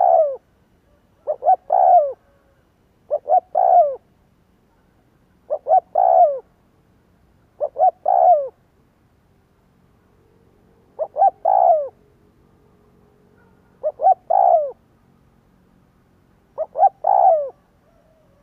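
Spotted dove cooing, a lure call to draw wild doves. The same phrase repeats eight times, each a couple of short notes ending in a longer falling coo, about every two seconds, with a longer pause near the middle.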